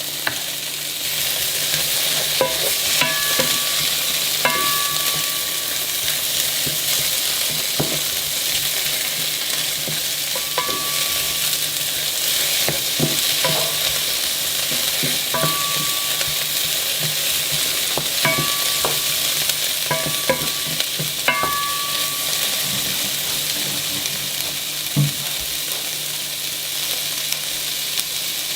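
Food sizzling steadily in a frying pan while being stirred, with a utensil clinking against the pan now and then in short ringing knocks. A low steady hum runs underneath.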